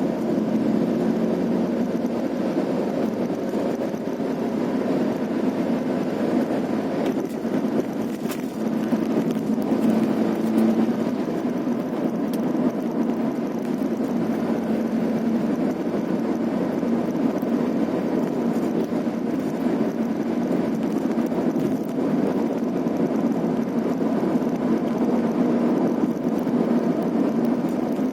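Vehicle driving along a rough, potholed road: steady engine and road noise, with a few brief knocks.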